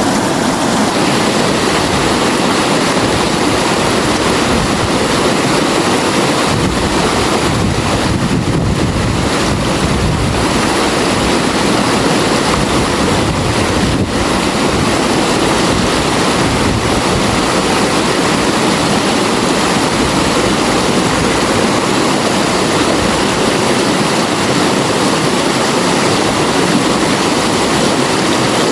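River water flowing in a steady, loud, unbroken rush.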